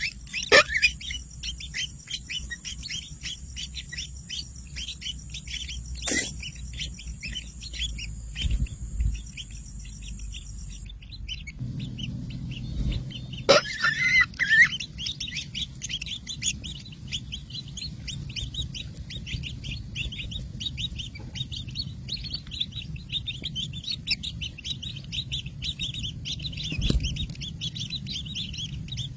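A flock of small birds chirping and twittering rapidly together, a dense, continuous chatter of short high calls. A steady high-pitched tone runs under it until about eleven seconds in, where the background changes abruptly, with a couple of sharp clicks along the way.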